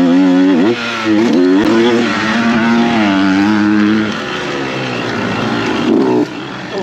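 Dirt bike engine revving up and falling back over and over as the throttle is worked, with a brief drop when the throttle is shut about a second in and again near the end.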